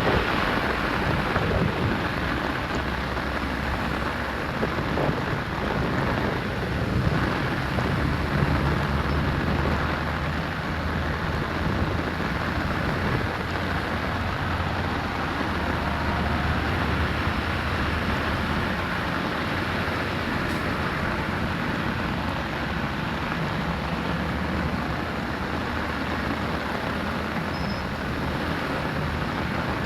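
Steady rushing water noise, such as water flowing through a drain, with a faint low hum underneath.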